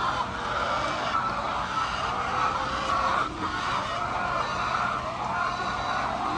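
A flock of chickens calling over one another in a steady, unbroken chorus of overlapping clucks and squawks.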